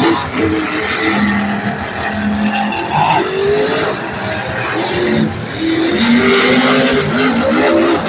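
Several supercharged, alcohol-fuelled monster truck engines revving loudly at once, their pitches rising and falling over one another.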